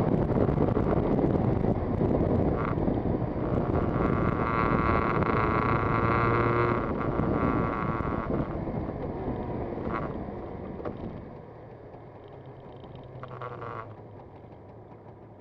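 Yamaha TZR250 two-stroke twin motorcycle running under way with heavy wind noise on the microphone, then easing off: about eleven seconds in the sound drops to a much quieter, steady low engine note.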